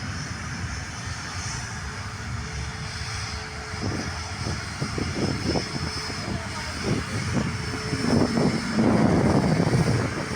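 Jet airliner engines running, a steady rushing noise with a thin high whine, growing louder about two seconds before the end.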